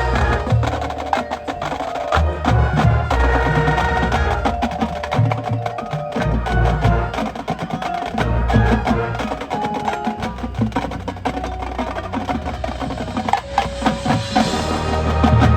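Marching band music with busy percussion: rapid wood-block-like clicks and drum hits, including deep bass drum strokes, over held notes from the winds and mallet instruments.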